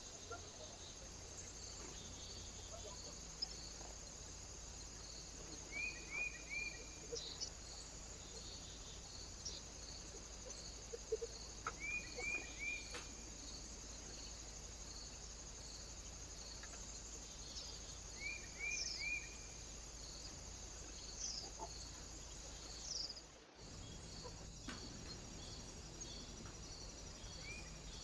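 A small bird calling near a feeder: quick groups of three short, falling chirps, repeated about every six seconds. Underneath is a faint, regular high-pitched pulsing and a steady low hum.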